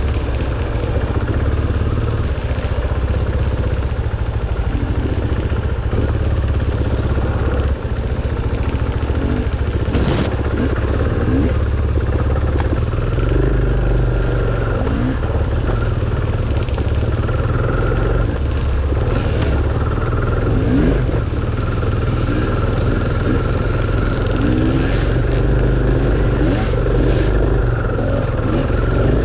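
Dirt bike engine running under way, revving up and down in short rising sweeps as the throttle is worked. There is a sharp knock about ten seconds in.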